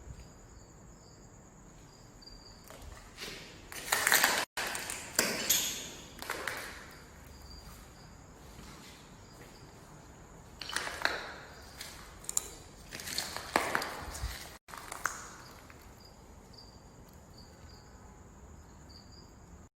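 Insects trilling steadily, with small chirps, under two spells of loud crunching and scuffing steps about 3 to 7 seconds and 10 to 15 seconds in, the audio cutting out briefly in each spell.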